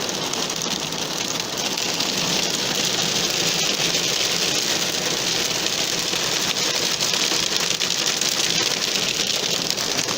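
Falling hail: a dense, steady rattle of countless small hailstone impacts.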